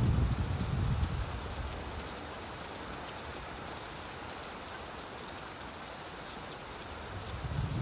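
Steady rain falling, with a low rumble of thunder dying away over the first second and another rumble building near the end.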